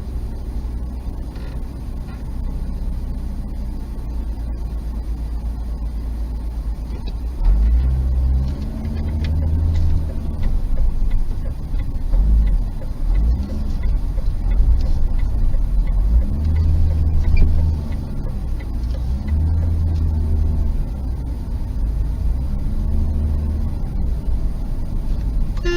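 Car engine and road noise: a steady low rumble whose pitch rises and falls several times from about a third of the way in, as the car speeds up and eases off.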